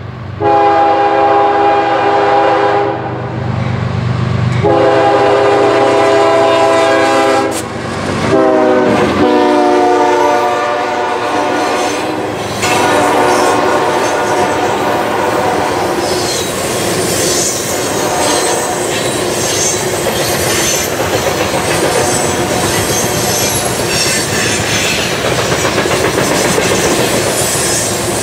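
Freight locomotive's horn blowing long, long, short, long, the grade-crossing signal, its pitch dropping about eight seconds in as it passes. Then a long train of refrigerated boxcars rolls by with steady wheel clatter and some high wheel squeal.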